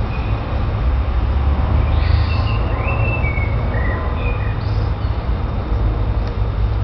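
Steady low rumble of background noise with a few short, high bird chirps about two to four and a half seconds in.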